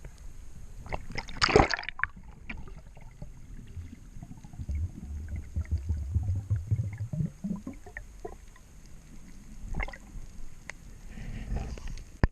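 Water sloshing and gurgling, with a loud sudden splash about a second and a half in and a low rumble in the middle.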